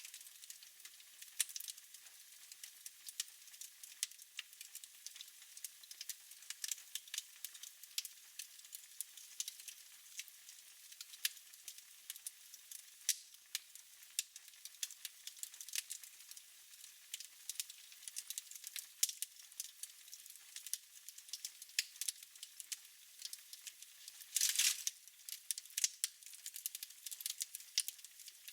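Wood fire burning in a fireplace, crackling with many small irregular pops over a faint hiss, and one louder flurry of crackles near the end.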